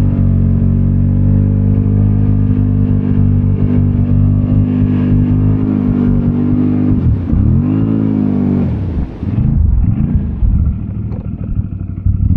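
ATV engine running at a steady speed for several seconds, then revved up and down a few times near the end, its pitch dropping and rising with each throttle change.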